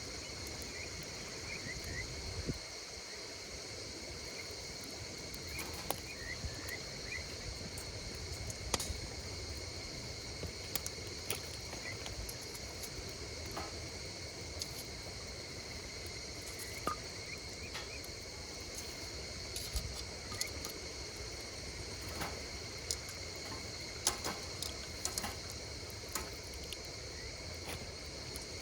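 A steady high chorus of chirping insects, with a few short runs of lower chirps from another caller, and the sharp pops and crackles of a wood fire scattered throughout.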